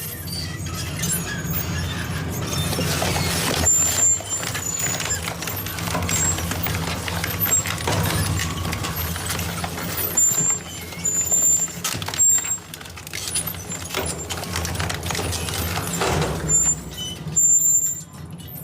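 Industrial metal shredder running under load: a steady low machine hum with irregular cracks, bangs and short high metal squeals as scrap metal is torn apart.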